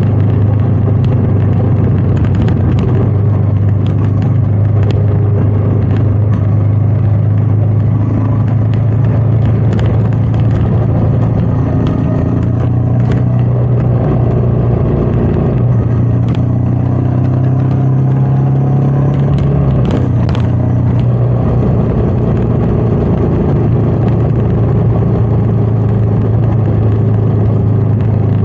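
Royal Enfield Meteor 350's single-cylinder engine running steadily on the move, with wind noise. The engine note steps up a little around the middle and drops back about two-thirds of the way through.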